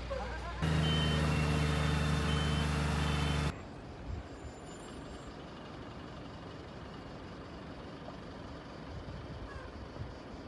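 A heavy vehicle's engine running steadily for about three seconds, with a few short high beeps, starting and stopping abruptly; after that, a low steady outdoor background.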